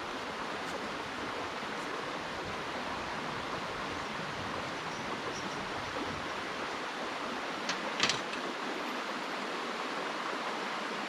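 Steady, even rushing noise with no gunshot, and two faint clicks close together about eight seconds in.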